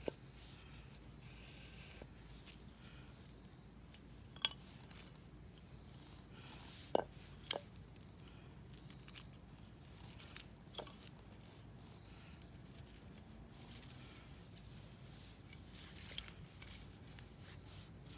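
Knife shaving wood into a feather stick: scattered short scrapes and clicks, the sharpest about four seconds in.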